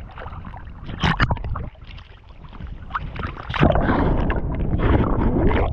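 Lake water splashing close to the microphone, with wind rumbling on it. A couple of short splashes come about a second in, then louder continuous churning and sloshing from about three and a half seconds.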